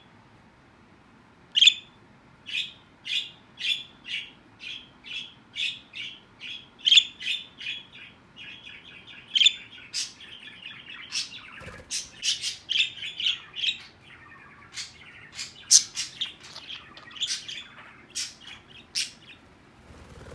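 Small pet parrots calling: a run of sharp chirps at about two a second beginning a couple of seconds in, then quicker, overlapping chirping and twittering.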